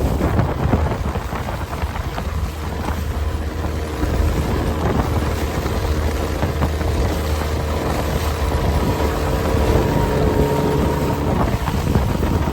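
A small boat's motor running steadily underway, a faint even hum under heavy wind buffeting the microphone.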